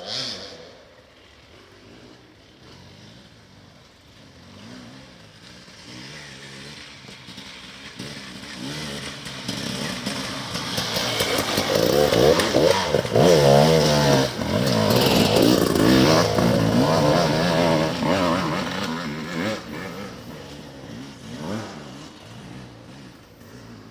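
Enduro motorcycle engine approaching, passing close with the throttle opening and closing, then riding off and fading away.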